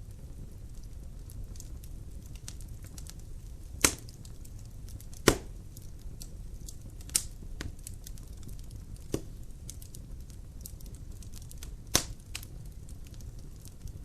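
Wood logs burning in a fireplace: a steady low rumble of the fire with many small crackles, and a few louder sharp pops of the burning wood.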